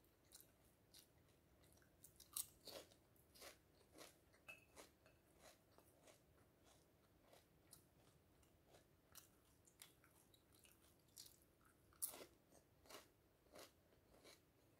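Pumpkin seed and seaweed crisp being bitten and chewed: a run of small, crisp crunches about twice a second, with two sharper, louder bites, one about two seconds in and one about twelve seconds in.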